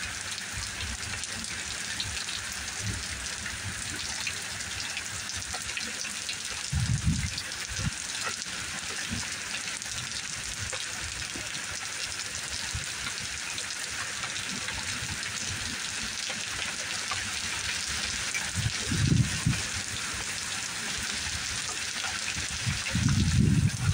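Heavy rain falling steadily, an even hiss. Three brief low rumbles rise above it, about seven, nineteen and twenty-three seconds in.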